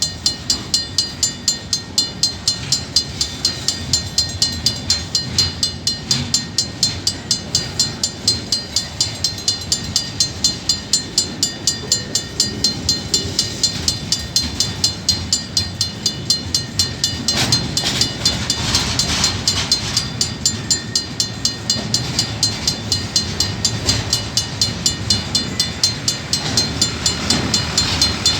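Level crossing bell ringing in rapid, even strokes, about three a second, over the low rumble of a diesel-hauled train rolling through the crossing.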